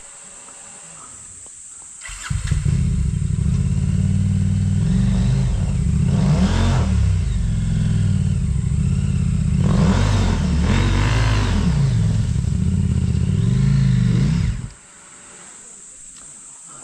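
Off-road motorcycle engine revving hard in repeated surges, its pitch rising and falling several times as it works over rough ground. It comes in abruptly about two seconds in and cuts off sharply near the end.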